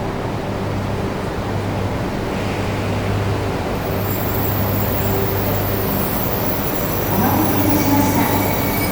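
Steady low hum and rumble of a Shinkansen train at the platform, with a high hiss coming in about halfway through. A voice begins near the end.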